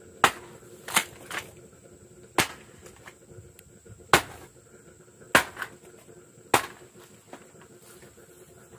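A series of about seven sharp cracks or knocks at uneven intervals, the loudest near the start and about four seconds in.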